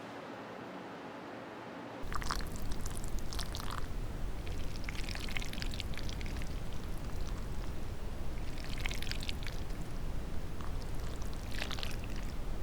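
A low, steady hiss. About two seconds in, liquid starts pouring in a steady stream, with a few brighter spells of splashing.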